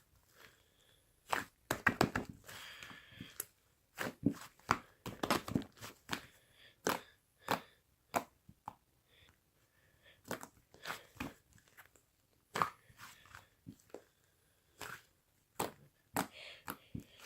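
Pink slime clay being squeezed and poked by hand, giving irregular crackly clicks, pops and short crunches.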